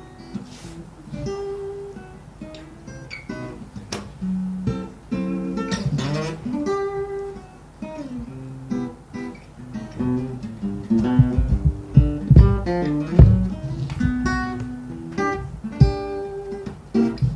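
Acoustic guitar playing a solo introduction, picked notes and strummed chords, growing louder in the second half.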